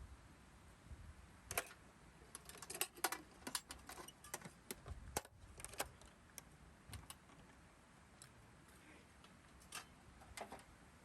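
Small hard objects being handled: irregular light clicks and clinks, thickest in the first half, with a few more near the end.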